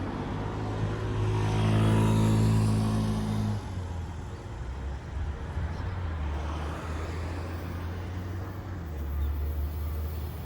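A road motor vehicle's engine hum swells as it drives past, loudest about two seconds in. At about three and a half seconds it gives way to a lower, steady engine hum.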